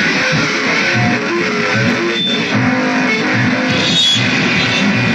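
Guitar music, loud and continuous, with low notes pulsing underneath.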